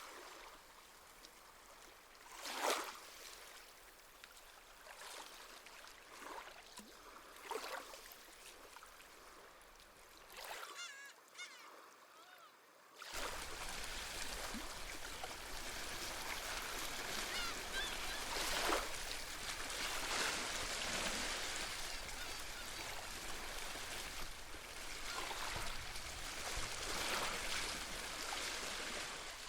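Seabirds calling over gentle waves on the shore: at first separate short calls above a soft wash of water. About 13 seconds in the sound turns abruptly louder, with a steady rush of surf and a busy chorus of honking seabird calls.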